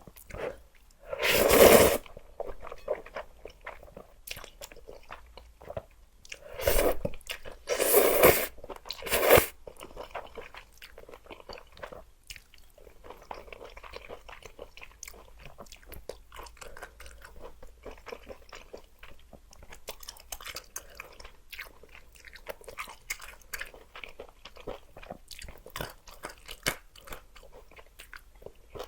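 Close-miked eating of luosifen rice noodles: four loud slurps in the first ten seconds or so, then steady chewing with small crunches and wet mouth clicks.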